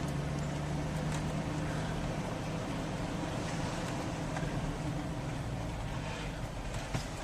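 Motor vehicle engine running steadily, a low even hum with a few faint clicks near the end.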